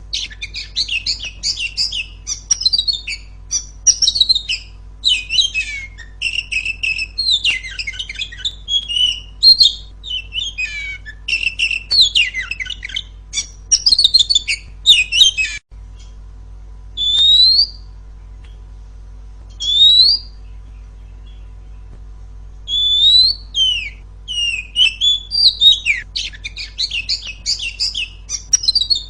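Female oriental magpie-robin singing a fast, varied run of chirps, trills and whistles. About halfway through the song breaks off for a few seconds, with two single rising whistles, then the dense song resumes.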